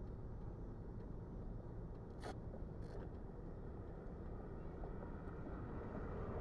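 Faint low rumble with no engine note, and two short sharp clicks about two and three seconds in.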